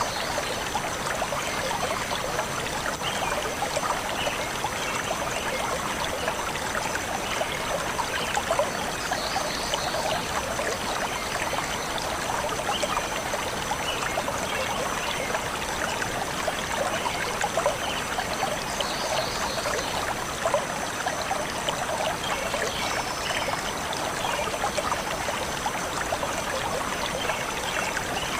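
Stream of water flowing steadily over stones, an even rushing and trickling, with scattered high chirps of birds now and then.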